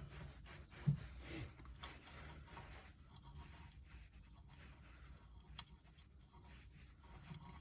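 Faint rubbing and light clicking of a freshly oiled gearbox bearing being turned by finger in a Honda CR125 crankcase, with one sharper knock about a second in.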